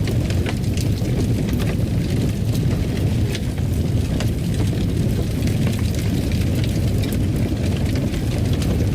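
Fireplace fire crackling: a steady low rumble with scattered sharp pops and snaps throughout.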